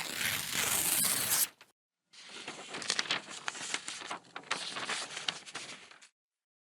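Two editing sound effects: a hissing noise burst of about a second and a half, then after a short gap about four seconds of irregular crackling with many small clicks, like paper tearing or crumpling.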